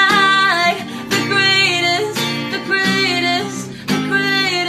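A girl singing a pop song over strummed acoustic guitar, holding long notes that slide in pitch.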